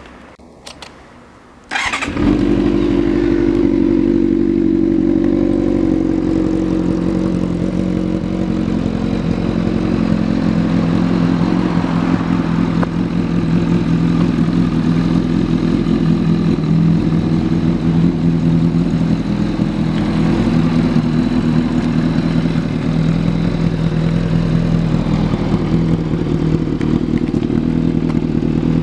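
Kawasaki ZRX400's inline-four engine, fitted with an RPM aftermarket exhaust, starting about two seconds in after a few faint clicks, then idling steadily.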